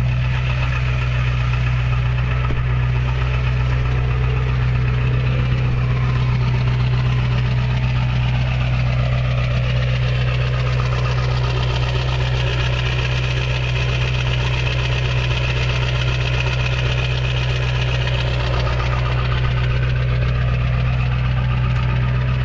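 2002 Ford F-250's 7.3-litre Power Stroke turbo-diesel V8 idling steadily shortly after a cold start, heard through a 5-inch exhaust with no muffler.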